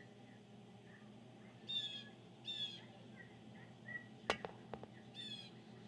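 Wild birds calling: three short harsh calls and soft high chirps in between. A sharp click comes a little past four seconds in, followed by two fainter ones.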